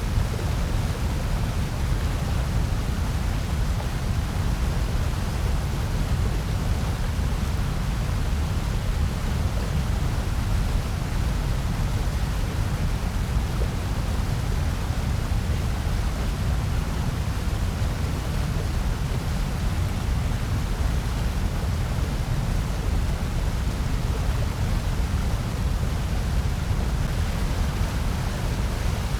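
Steady, unchanging electronically generated noise of the kind sold as white noise. It is heavier in the low end, so it sounds deep rather than bright and hissy.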